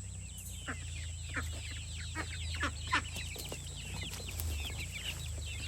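Chickens calling: many short, high, overlapping chirps with a few louder downward calls mixed in, over a steady low hum.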